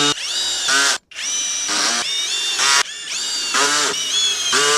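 Cordless drill/driver running in several trigger bursts, its whine rising in pitch as it spins up each time, driving screws to fix a subwoofer into its box.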